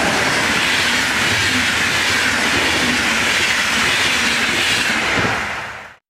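Deutsche Bahn Intercity coaches passing at speed: a loud, steady noise of wheels running on the rails, which fades fast and cuts off near the end.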